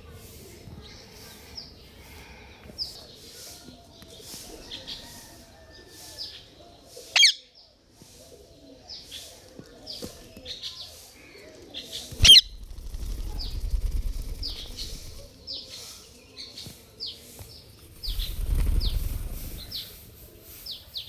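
Pet parrot chirping repeatedly in short, high, falling notes, with two loud shrill whistled calls that stand out above the rest. Low rumbling noise comes in twice during the second half.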